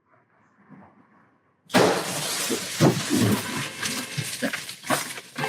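A sudden loud crash about two seconds in, followed by several seconds of continuous breaking and clattering with many sharp impacts.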